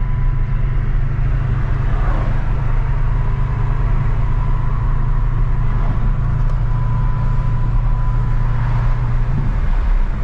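2006 Dodge Charger R/T's 5.7-litre Hemi V8 pulling the car along at a steady speed, heard as a constant low drone with road noise; the drone shifts slightly near the end.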